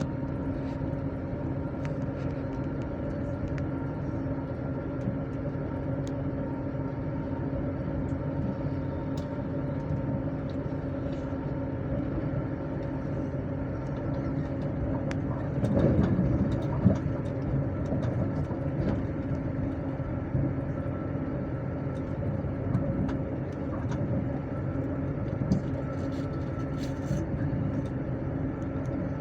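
Steady running noise heard inside a moving passenger train: wheels rumbling on the rails under a constant hum. The noise swells for a couple of seconds about halfway through, with a sharp knock, and light clicks recur throughout.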